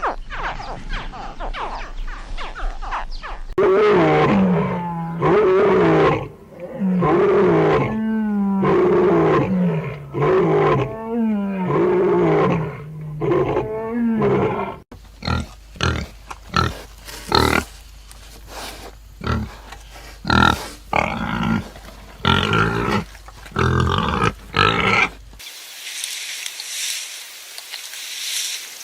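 A large animal giving a long series of deep, wavering calls about a second apart. A different stretch of short, sharp animal calls follows, and near the end there is a steady high hiss of outdoor ambience.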